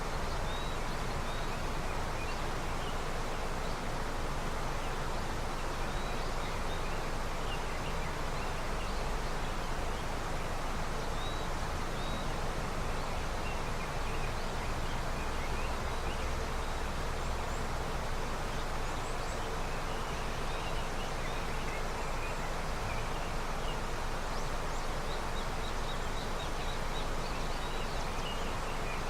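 River running with early snowmelt: a steady, even rush of flowing water, with faint short bird chirps scattered throughout.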